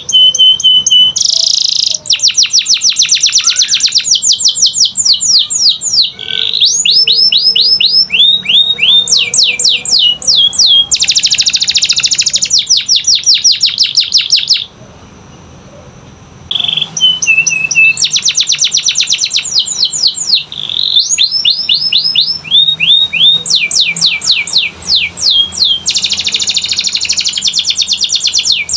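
Domestic canary singing: phrases of fast trills made of quickly repeated, down-sweeping high notes, broken by a pause of about two seconds midway.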